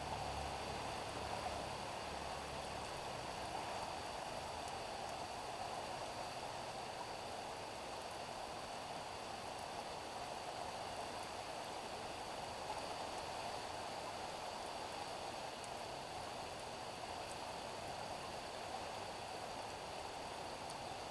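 Steady rain falling on a street, an even hiss of drops on the pavement. A low rumble sits under it for the first few seconds, then fades.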